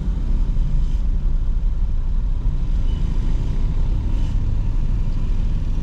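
Car in motion, its engine and road noise making a steady low rumble as heard from inside the cabin.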